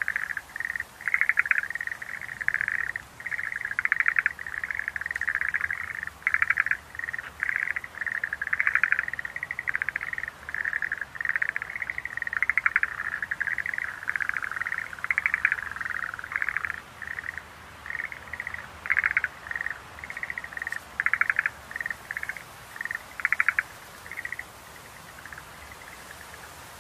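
Schlegel's green tree frogs calling: short, rapidly pulsed trills repeated one after another, thinning out and stopping about three-quarters of the way through, leaving a faint hiss.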